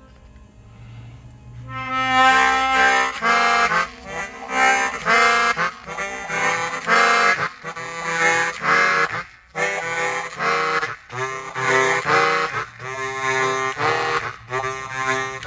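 Suzuki Sirius S48B bass chromatic harmonica played through effects with added reverb: a quiet low note, then from about two seconds in a run of short, choppy notes.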